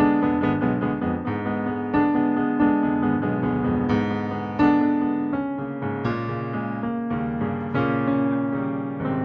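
Piano music, chords and melody notes struck about once a second and left to ring.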